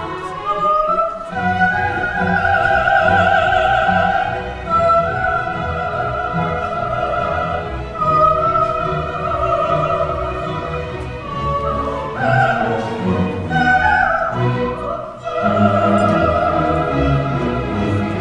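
Coloratura soprano singing a wordless vocalise with orchestra: long held high notes with wide vibrato, linked by short runs, over a continuous orchestral accompaniment.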